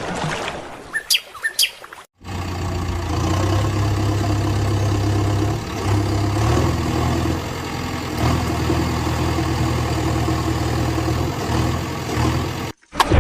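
A vehicle engine running steadily at idle, a low drone that cuts in abruptly about two seconds in and stops abruptly near the end. Birds chirp briefly before it starts.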